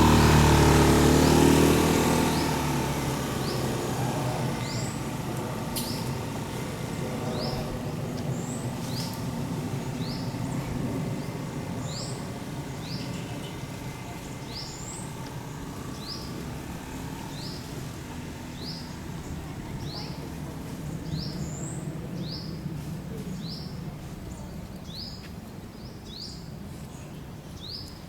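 A bird repeating a short, high, falling chirp about once a second, over steady background noise. A vehicle's rumble fades away in the first couple of seconds.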